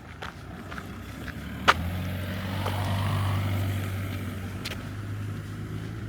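A motor vehicle passing close by: a steady low hum with a rush of noise that swells and fades, after a sharp click about a second and a half in.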